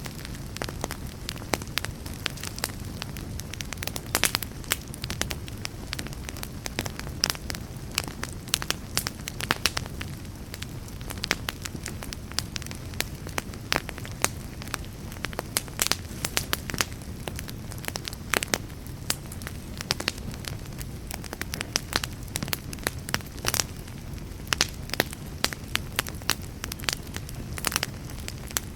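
Wood fire burning with a steady low rush and many sharp, irregular crackles and pops throughout.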